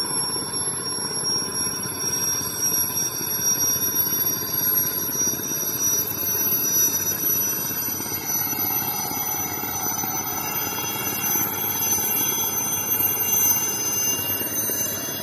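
Helicopter running steadily: a continuous rumble with a thin high whine over it that rises slowly in pitch.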